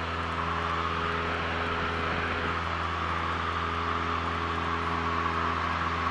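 Cessna 172L's four-cylinder Lycoming engine and propeller droning steadily inside the cabin during the climb-out after takeoff.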